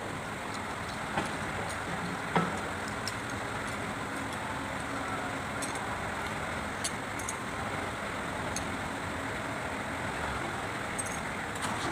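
A few light metallic clinks of tools on metal, with one louder knock about two seconds in, over a steady background rumble.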